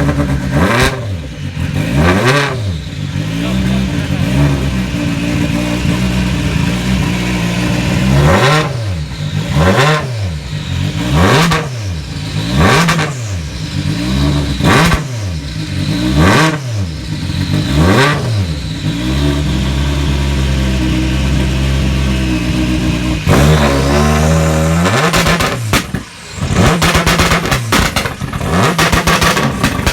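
Toyota Yaris WRC rally car's turbocharged 1.6-litre four-cylinder engine being blipped over and over, its pitch rising and falling about every second and a half. It then holds steady for a few seconds and rises once more, and near the end breaks into a rapid crackle of anti-lag pops. The recording is distorted in places.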